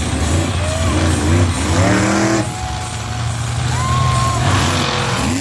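Monster truck engine running loud, revved repeatedly so its pitch rises and falls several times over a low steady drone.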